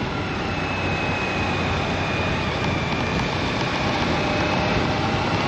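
Motorcycle riding at road speed: engine running under a heavy rush of wind noise on the microphone, growing slightly louder.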